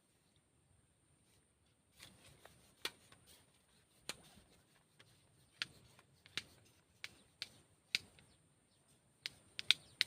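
Close handling noises: irregular sharp clicks and short rustles, beginning about two seconds in, the loudest near the end.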